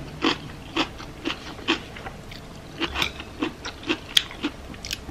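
Close-up chewing of a mouthful of rice bowl with cucumber, sweet corn and tomato: soft crunches about twice a second, with a brief pause a little past two seconds in.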